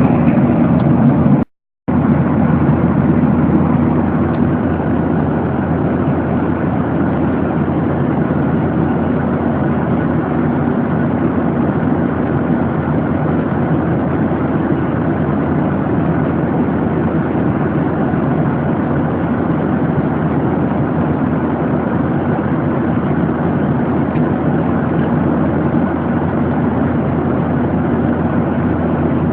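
Steady cabin noise of a Boeing 737-800 in flight: an even rush of air and engine noise with a steady low hum. It drops out completely for a moment about a second and a half in.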